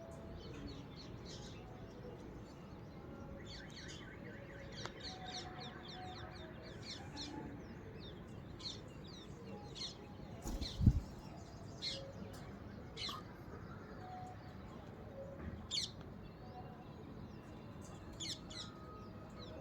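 A parrot chirping at close range in short, high, repeated chirps, with a quick run of them a few seconds in. A single loud thump sounds about halfway through.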